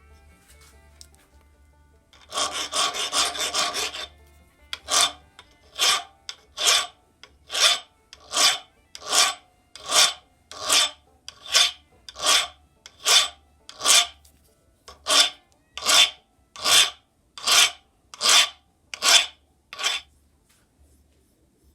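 A hand file rasping on a metal engine part. First comes a quick back-and-forth scraping run of about two seconds, then about eighteen slow, even strokes, roughly one a second, which stop near the end.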